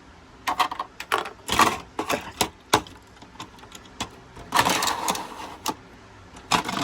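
Plastic toy trains and track pieces clicking, knocking and scraping irregularly as they are handled and pushed along, with two short sliding scrapes.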